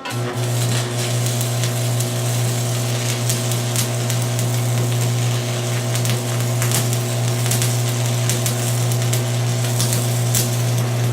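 Stick (shielded metal arc) welding with a 6024 rod: the arc strikes right at the start and then runs steadily, crackling and sizzling with frequent sharp pops over a strong, steady low buzz.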